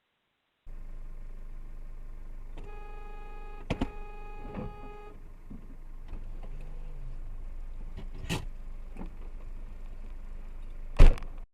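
Steady hum inside a car, with an electronic beep held for about two and a half seconds, a few clicks and knocks, and one sharp knock near the end, the loudest sound here.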